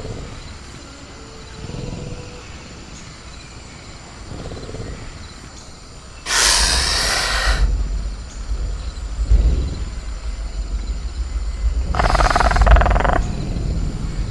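Sound-designed velociraptor calls: two loud screeching roars, the first about six seconds in and the second about twelve seconds in, each lasting a second or so, over a low rumble. Fainter low growls come before them.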